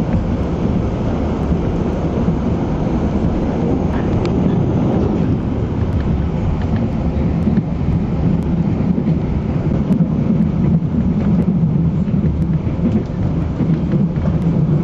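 Passenger train running on the rails: a steady low rumble with a few faint clicks.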